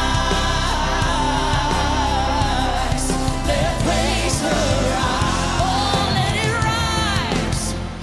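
Gospel worship music: a singer's voice winding through a melody over a band with a steady, sustained bass.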